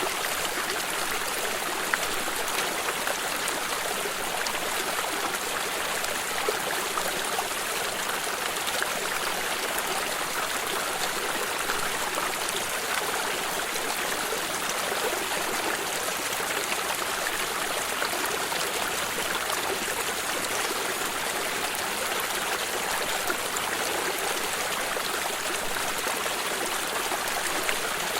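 Stream of running water flowing and trickling steadily, with small splashes and gurgles flickering through it.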